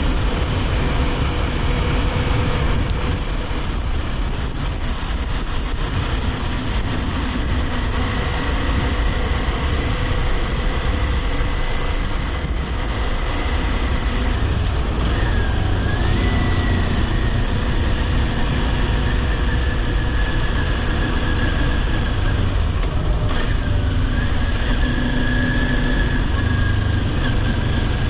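Kawasaki Ninja 400's parallel-twin engine running at a steady cruise, under a heavy rush of wind and road noise. The engine note dips briefly about halfway through.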